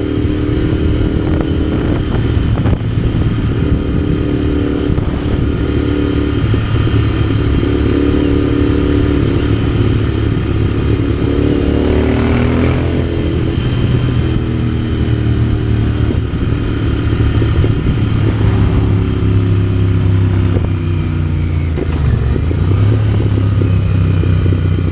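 Motorcycle engine running under way on the road, its pitch rising and falling several times as the engine speed changes.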